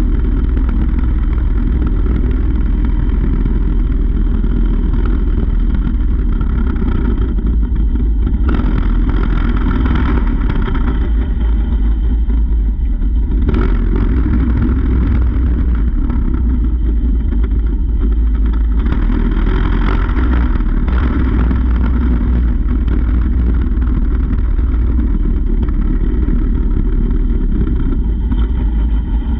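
Mini bike's small engine running while being ridden, with a heavy low rumble throughout and a few brief surges in the sound.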